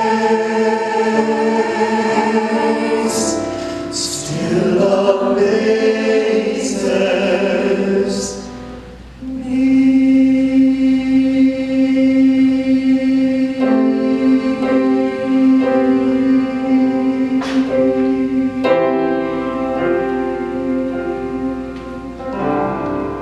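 Choir singing the closing phrase of the song, then holding a long final chord from about nine seconds in that fades out near the end.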